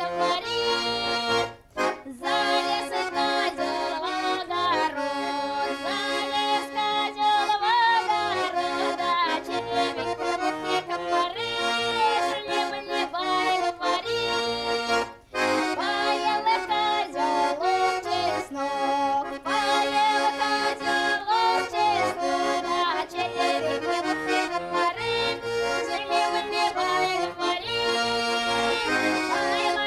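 Accordion playing an instrumental folk tune with chords and a moving melody, breaking off briefly about two seconds in and again about fifteen seconds in.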